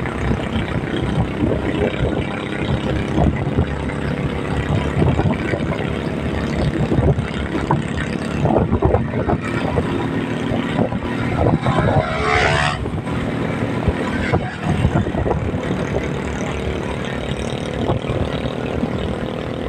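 A vehicle on the move: steady engine and road noise with frequent small knocks, and a brief louder rushing sound about twelve seconds in.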